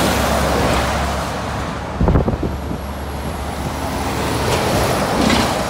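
Road traffic going by: a vehicle passes near the start and another builds up and passes about five seconds in. There is a short low thud about two seconds in.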